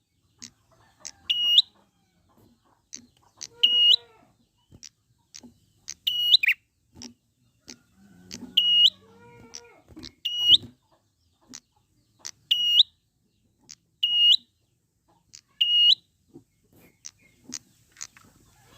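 Prinia (prenjak) calling repeatedly, a sharp high-pitched note about every one and a half seconds with short clicking notes in between. Fainter, lower calls from another bird come in now and then.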